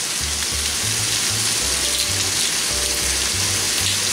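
Cuttlefish and vegetables sizzling in a hot wok, a steady even hiss, over background music with a stepping bass line.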